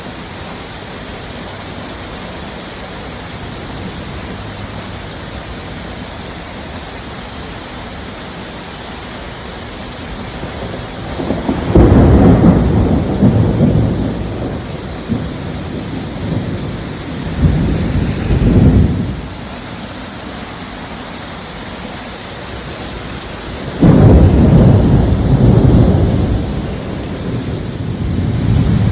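Steady heavy downpour with rolling thunder: three loud, low rumbles, starting about 12, 17 and 24 seconds in, each lasting a second or more.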